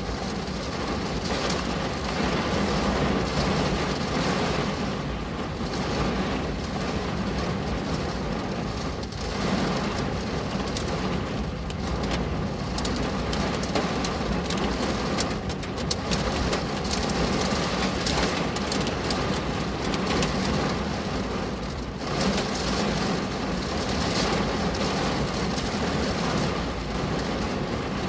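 Steady rain falling on a window, an even hiss with scattered drop ticks and a constant low rumble underneath.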